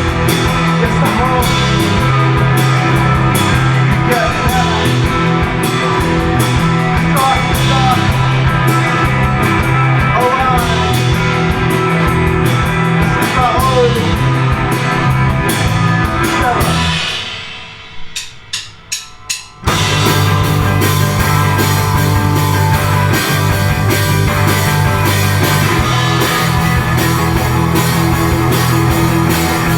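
Live indie rock band with guitars, bass, drums and vocals playing loudly. About seventeen seconds in the music fades out, four evenly spaced sharp clicks follow, and the full band comes straight back in.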